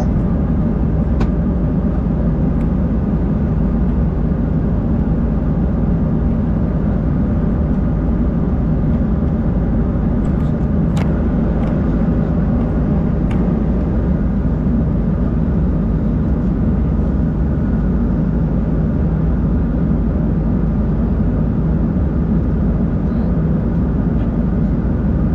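Steady cabin noise of an Embraer 190-E2 jet, from its Pratt & Whitney PW1900G geared turbofans and the airflow, heard from a main-cabin seat. There are a few faint clicks.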